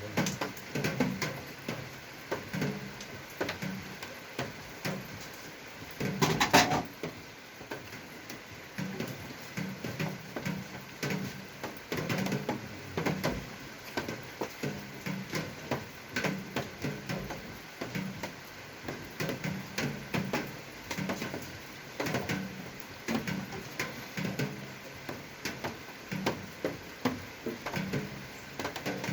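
Irregular clicks and knocks of objects being handled, with one louder, longer clatter about six seconds in.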